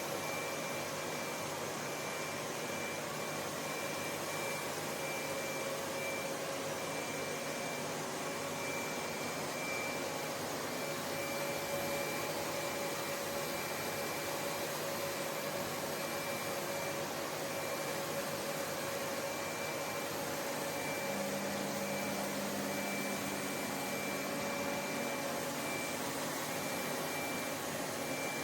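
Lefant M1 robot vacuum running: a steady whir of suction with a thin high whine over it. A lower hum joins for a few seconds about three quarters of the way through.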